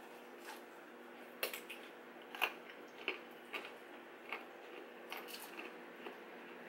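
Close-up mouth sounds of chewing and biting crunchy food, onion rings and raw vegetables, with short sharp crunches about once a second.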